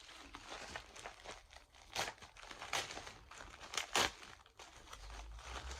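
Packaging crinkling and rustling as an item is unwrapped and handled, with a few sharp, louder crackles about two and four seconds in.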